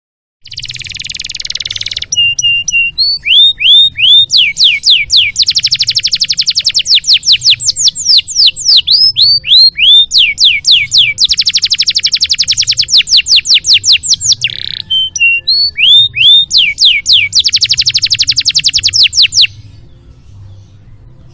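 Domestic canary singing one long, loud song. It opens with a harsh buzzy phrase, then alternates sweeping whistled notes with long, very fast trills of repeated notes, and stops shortly before the end. A faint low hum lies under it.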